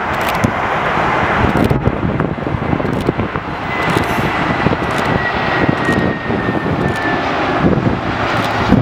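Jet airliner's engines roaring steadily as it passes, with a faint high whine that slowly sinks in pitch from about three and a half seconds in to near the end.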